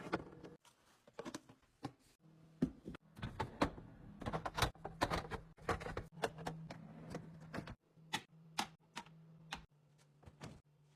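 Quick, irregular clicks and taps of small objects being handled and set down, typical of restocking a fridge: plastic containers, packets and lids knocking. A low steady hum runs underneath. The taps thin out after about eight seconds.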